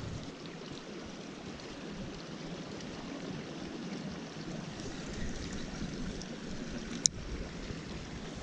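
Small mountain creek running steadily, a constant rush of flowing water, with one sharp click about seven seconds in.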